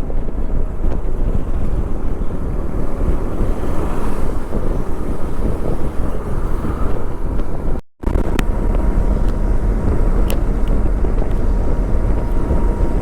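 Motorcycle riding at highway speed: a KTM 390 Adventure's single-cylinder engine running under steady wind rush on the microphone. The sound drops out for an instant about eight seconds in.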